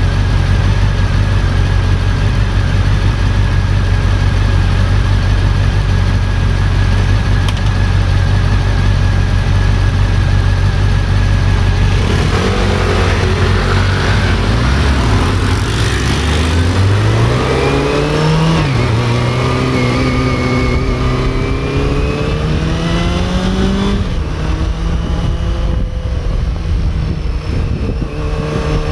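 Honda CB400 Super Four's inline-four engine holding a steady note, then accelerating with rising pitch a little under halfway through. The pitch drops once at a gear change, climbs again, and settles into a steady, higher note near the end.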